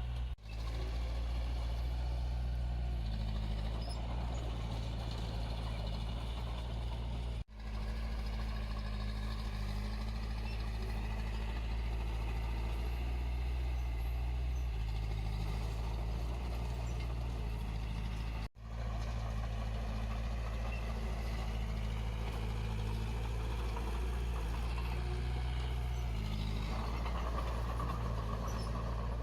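Diesel engine of heavy earthmoving machinery running steadily, its pitch stepping up and down a few times. The sound drops out briefly three times.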